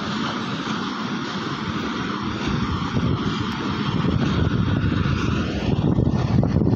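Pakistan Railways passenger coaches rolling past on the rails, a steady heavy rumble and rattle of wheels and carriages. It grows louder toward the end.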